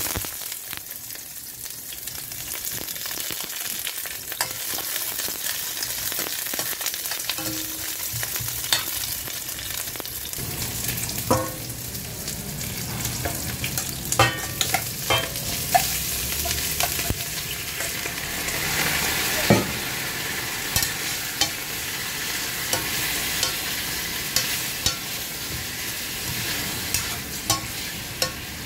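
Onion pieces sizzling in a stainless steel wok, with chicken pieces tipped in from a metal bowl about halfway through and then stirred. Sharp metal clinks and scrapes from the bowl and a spatula against the wok come over the steady sizzle in the second half.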